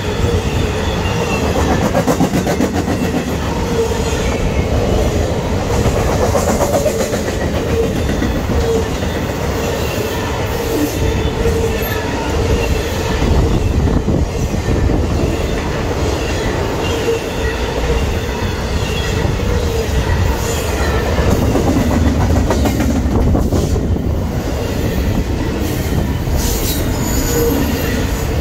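Railcars of a passing train rolling by: a steady rumble of steel wheels on rail, with clacking and a thin, wavering wheel squeal.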